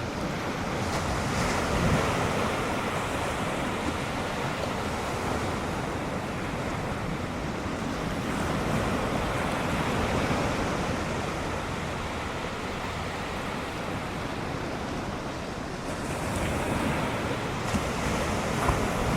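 Ocean surf breaking on the beach: a continuous rushing wash that swells louder several times as waves come in, with some wind on the microphone.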